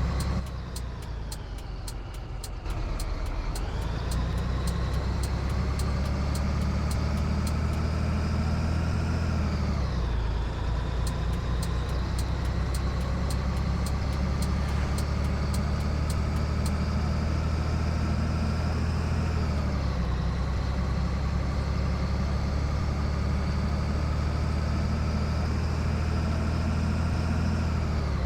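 Scania 113 truck's six-cylinder diesel engine pulling up through the gears: the engine note climbs steadily, then drops at each upshift, three times. Faint regular ticking runs under it for the first half.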